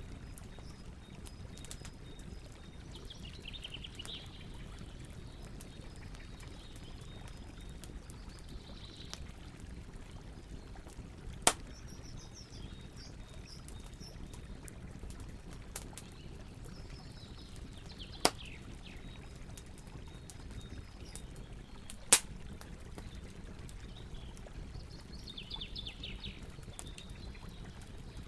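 Wood campfire crackling, with three sharp, loud pops, over the steady rush of a river. Birds call briefly several times.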